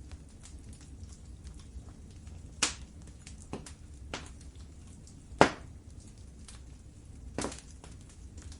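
Wood fire burning in a fireplace: a steady low rumble of the flames with sharp crackles and pops, three loud ones spaced a couple of seconds apart and a few fainter ticks between them, the loudest about halfway through.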